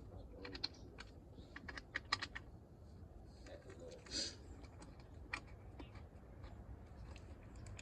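Faint, scattered light clicks and taps of tools and engine parts being handled, with a short hiss about four seconds in, over a steady low hum.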